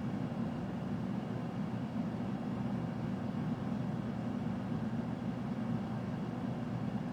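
Steady low rumbling background noise, unchanging throughout, with no distinct events.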